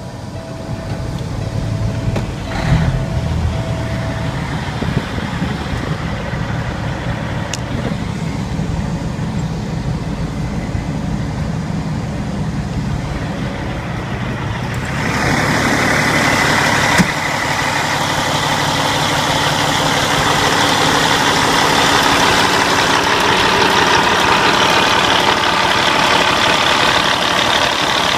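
Cat C15 diesel engine in a Peterbilt highway tractor starting and then idling steadily, with a dash warning buzzer beeping about four times during the start. About halfway through the engine sound gets louder and brighter, and a single sharp knock follows soon after.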